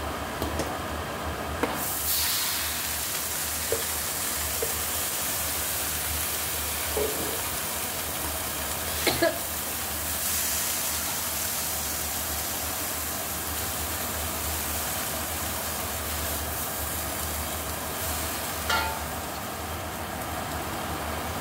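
Fern greens sizzling as they are stir-fried in a stainless steel wok. The hiss jumps louder about two seconds in as the wet greens hit the hot oil and steam. A metal spatula scrapes and clicks against the wok a few times.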